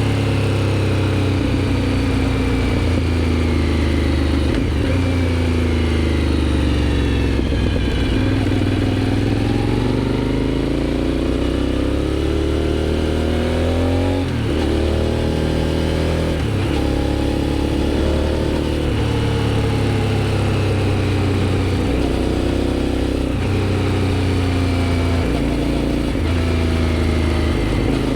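Aprilia Shiver 750's 90-degree V-twin engine through a GPR aftermarket exhaust, ridden on the road. The revs fall, then climb and fall again several times, with brief sharp breaks at gear changes.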